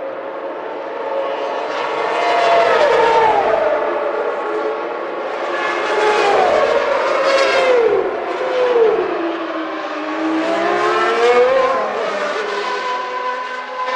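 Formula One race cars going past at speed, about three passes, each engine note falling in pitch as the car goes by.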